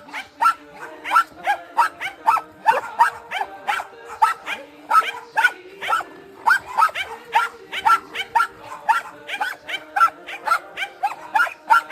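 Young dogs yipping and barking over and over while playing, several short high yips a second.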